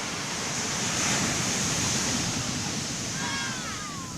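Ocean surf: a wave breaking and washing up the beach, swelling to a peak about a second in and then slowly fading.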